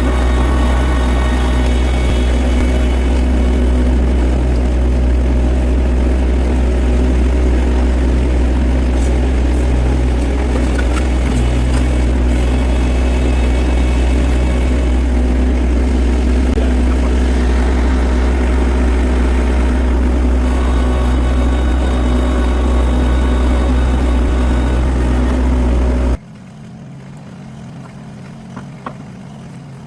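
An engine running steadily at constant speed, with a low, even drone. About 26 seconds in it cuts off abruptly, leaving a much quieter background with a few faint ticks.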